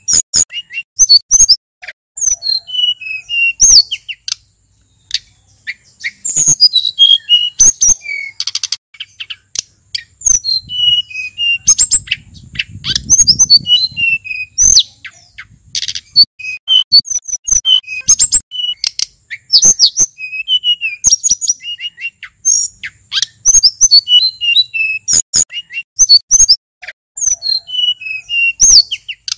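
Male sulingan gunung songbird singing a varied run of quick, high whistled phrases and sharp chirps, in clusters broken by short pauses.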